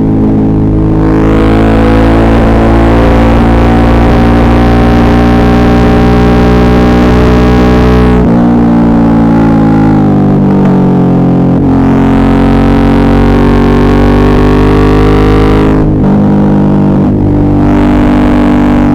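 Suzuki V-Strom 650's V-twin engine pulling under throttle, its pitch climbing slowly. The revs drop about eight seconds in and again near sixteen seconds, then climb again each time.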